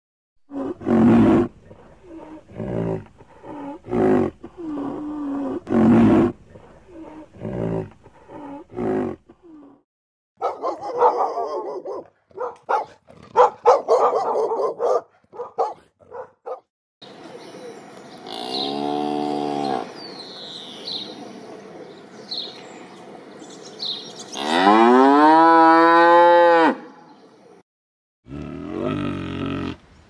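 A run of short calls from a white rhinoceros, then two dogs scuffling and growling as they play-fight. A cow moos twice in long calls that rise and fall, the second longer and louder, with birds chirping behind.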